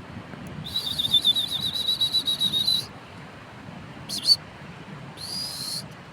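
Young birds calling: a fast string of high chirps lasting about two seconds, then two short high calls.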